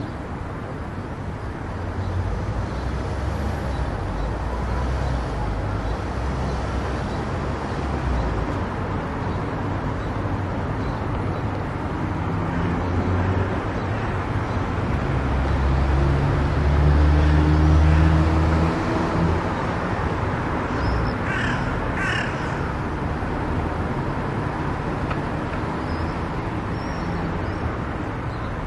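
Steady road and tyre noise of a car cruising on an expressway, with a low drone that swells for a few seconds near the middle. Two short high-pitched cries come about three quarters of the way through.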